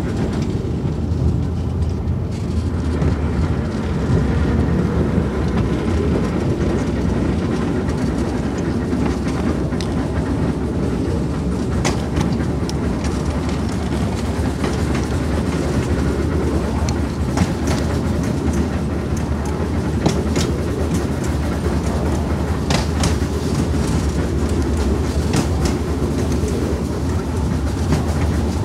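Narrow-gauge children's railway passenger train running along the track: a steady low rumble with sharp clicks now and then from the wheels passing over rail joints.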